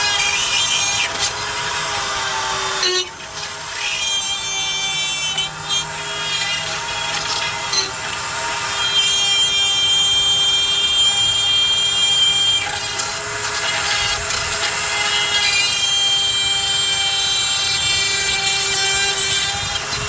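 Battery-powered tool motor running under load, cutting into the stuck metal coupler hub of a grinder's drive, with a steady high whine that cuts out briefly about three seconds in and dips again between five and six seconds.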